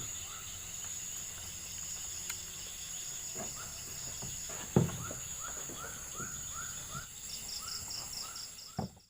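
Outdoor insect chorus: a steady high-pitched trill, with a run of short rising animal calls repeating about three times a second and a faster pulsed chirping near the end. A sharp knock comes about five seconds in, and the sound cuts off abruptly at the very end.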